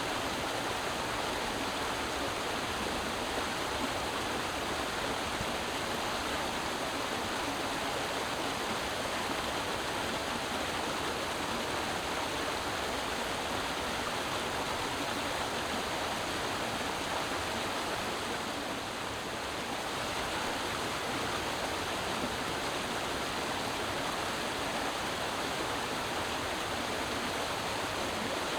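Creek water running and splashing steadily.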